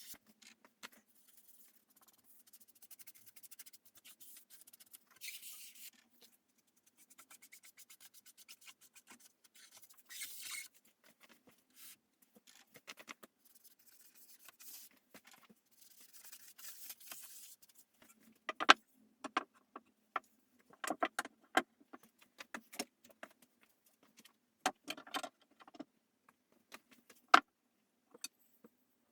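Hand-work handling sounds: faint intermittent rubbing and scraping at first, then, from a little past the middle, a run of sharp clicks and taps, a few of them loud.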